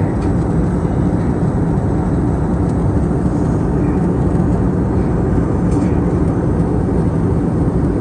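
Steady rumble and rush of an Airbus A320neo's engines and airflow heard from inside the passenger cabin, with a faint low hum running through it.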